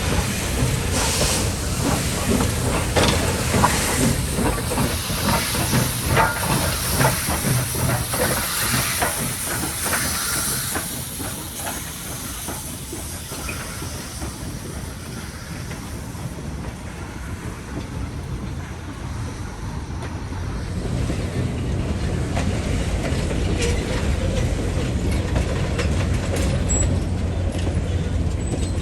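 Chesapeake & Ohio 1309, a 2-6-6-2 articulated Mallet steam locomotive, moving slowly, with a steady hiss of steam and a low rumble. For the first ten seconds or so there is a busy run of short knocks and clacks; after that it goes quieter with a thin high hiss, and the low rumble grows louder near the end as the engine draws closer.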